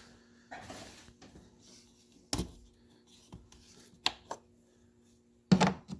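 Hands taking the oil filler cap off and popping the plastic engine cover off a Ford 3.5 EcoBoost V6: rubbing and scattered clicks and knocks. The loudest is a clunk about five and a half seconds in.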